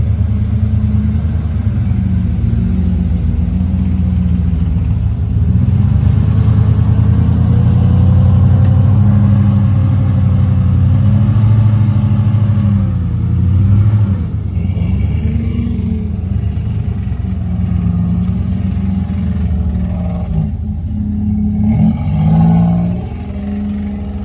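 1993 Toyota off-road truck's engine running and being revved on and off, its pitch rising and falling, with a rod knock that a companion puts down to the wrist pin having come out of a connecting rod.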